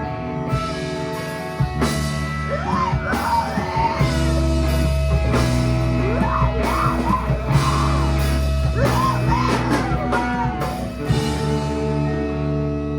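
A rock band playing live: electric guitars, drums and sung vocals. The drums stop about eleven seconds in, leaving the guitar ringing on.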